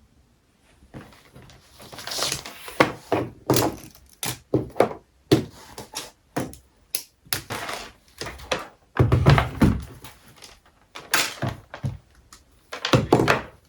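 A rapid, irregular series of knocks and thumps with some rustling. The heaviest thud comes about nine seconds in.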